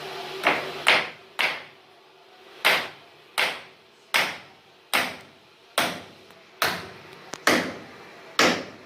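Carpenter's hammer blows on wood, about a dozen strikes at an uneven pace of roughly one a second.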